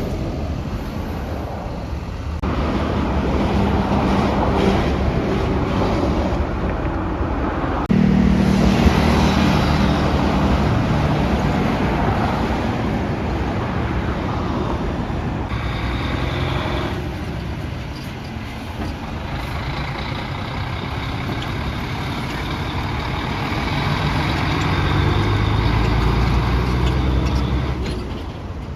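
Heavy trucks running on the road, with low engine rumble and tyre and traffic noise. The sound changes abruptly about 2.5, 8 and 15.5 seconds in.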